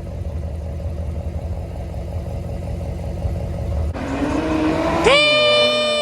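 Car engine rumbling low, then revving with a rising pitch about four seconds in, ending in a loud, steady high tone held for over a second.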